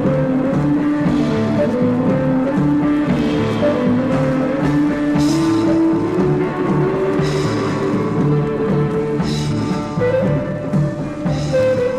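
Instrumental break of a rock band's recording played from a vinyl record: guitar and bass over a drum kit, with a bright cymbal-like stroke about every two seconds.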